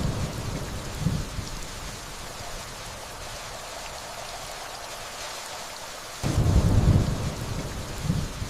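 Steady rainfall with distant thunder rumbling. One rumble is fading away at the start, with a brief second roll about a second in. Another rolls in about six seconds in and swells once more near the end.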